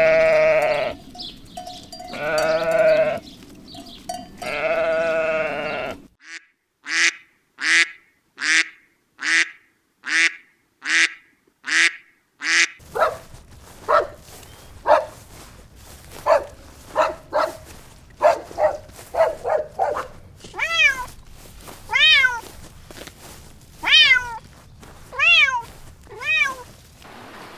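Farm animals calling: goats bleating in long, wavering bleats, followed by runs of short, repeated animal calls, some of them rising and falling in pitch.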